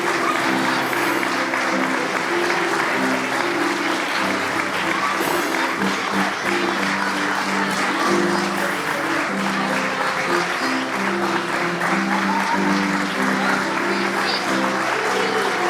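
Audience applauding steadily over instrumental music.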